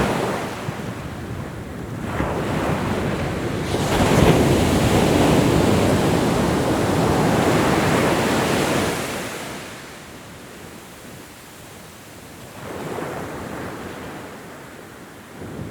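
Ocean waves breaking on a shore: a large wave crashes about four seconds in and washes out over several seconds, followed by quieter surf until the next wave builds near the end.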